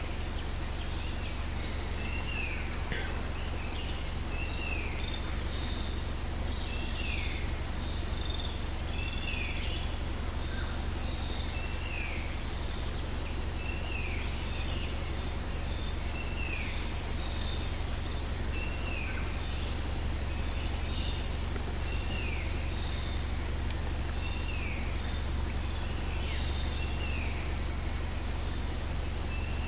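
Forest ambience: a bird repeating a short downward-sliding call about once every one to two seconds, over a steady high insect drone and a constant low rumble.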